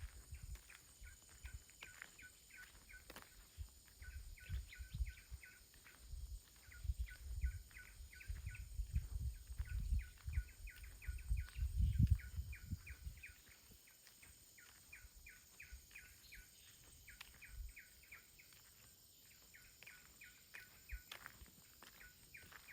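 A small bird chirping in quick runs of short, high repeated notes, several a second. Under it, wind buffets the microphone in a low, uneven rumble that is strongest about halfway through.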